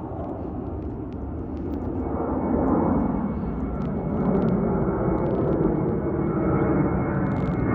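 Jet airliner's engines growing louder as the aircraft approaches, a wide rumble with a thin, steady high whine joining about two and a half seconds in.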